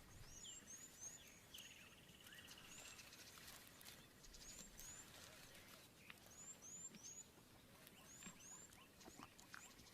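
Faint outdoor bush ambience with small birds giving quiet, high, short chirps, often in pairs, every second or two over a soft background hiss.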